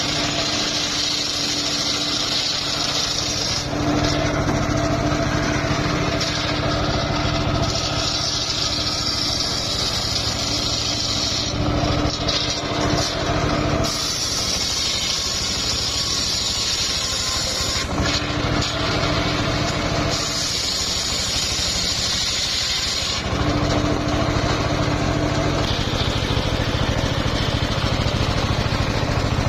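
Engine-driven homemade circular sawmill running with its blade ripping through old, somewhat hard mahogany. The loud, continuous sound shifts every few seconds between a hissing cutting noise and a steadier hum.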